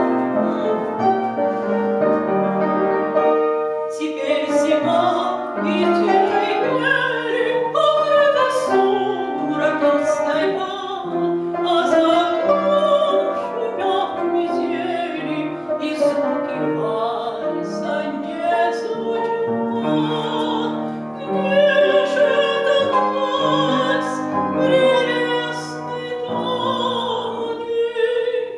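A woman sings a Russian romance in a classical, operatic style with vibrato, accompanied by piano. The piano leads for the first few seconds, then the voice comes in.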